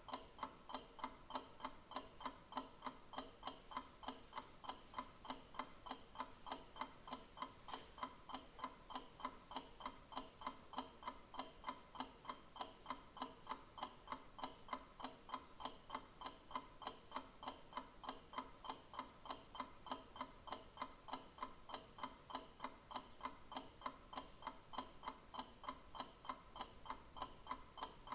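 Clock ticking: steady, evenly spaced ticks at an unchanging pace.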